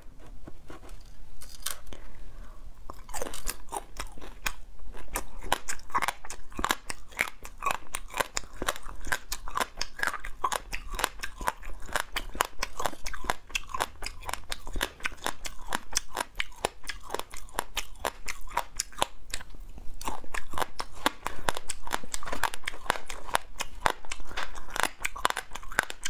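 Crunching and chewing of crispy fried insect pupae: a rapid run of crisp crackles, sparse at first and turning dense about three seconds in.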